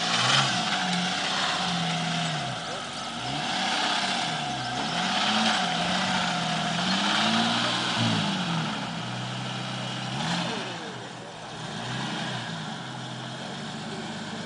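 Jeep Cherokee XJ engine revving up and down repeatedly as the 4x4 crawls over large rocks, the throttle rising and easing off several times.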